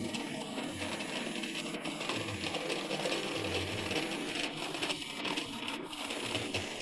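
Model train running on the layout's track: a steady whirring of the locomotive's motor and wheels on the rails, with no break.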